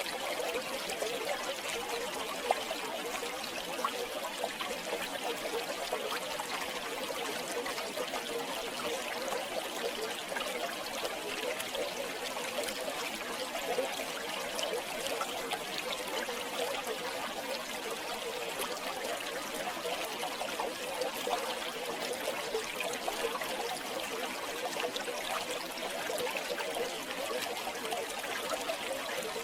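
River water flowing steadily, a continuous babbling and trickling rush with a few brief sharper splashes.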